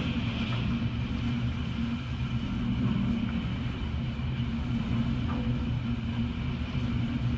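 Hurricane-force wind and rain against a building, heard from indoors behind a window as a steady low rumble with a constant low hum underneath.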